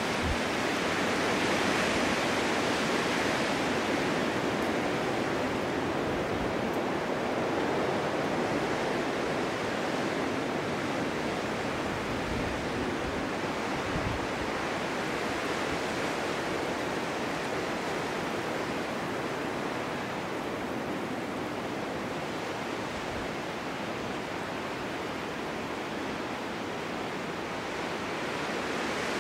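Snowstorm wind blowing steadily, a continuous rushing hiss that swells a little in the first few seconds and then eases slightly.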